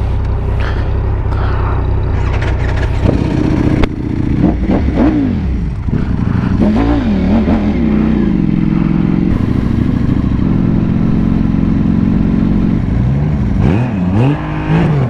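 Motorcycle engines running and revving as the bikes ride off. The pitch rises and falls several times over a steady low drone, as they accelerate and change gear.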